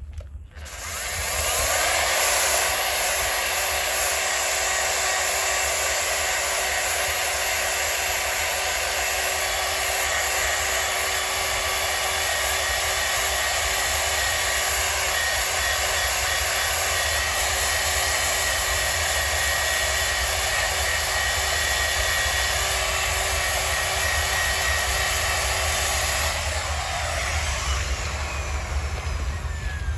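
A small electric machine spins up about a second in and runs with a steady whirring hiss and a constant hum. Near the end its sound changes and a falling whine follows, as if it winds down, while a rougher rushing noise carries on.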